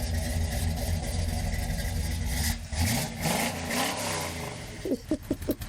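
Muscle car engine idling steadily, then revving up and back down briefly about three seconds in.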